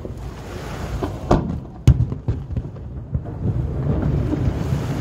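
Aerial fireworks bursting: two sharp booms about half a second apart, the second the loudest, then a run of smaller cracks over a continuous low rumble of further bursts and echoes.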